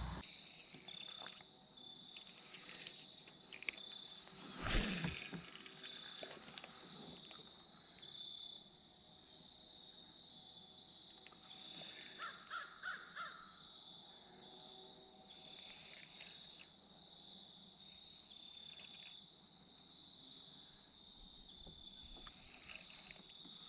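Quiet riverside ambience with a faint steady high-pitched hum. A short, louder noise comes about five seconds in, and a few short bird calls come about twelve seconds in.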